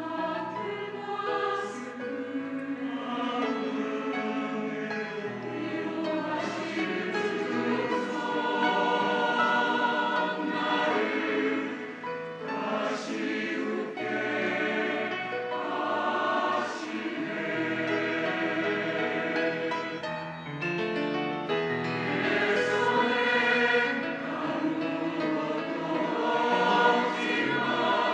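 Church choir singing a sacred anthem with accompaniment.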